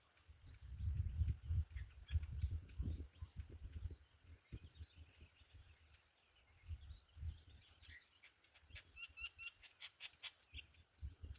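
Birds chirping in short, repeated high notes in the second half, over irregular low rumbling thumps.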